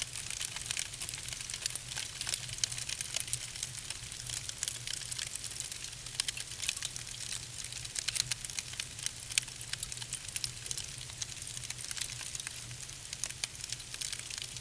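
Log fire crackling: many small, irregular snaps and pops over a steady hiss, with a faint low hum underneath.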